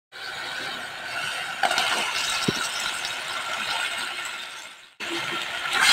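Dark soy-and-oyster sauce with onion, garlic and ginger sizzling in a pot, with a few clinks and knocks from the pot and utensils. The sizzle fades, then cuts abruptly to background music near the end.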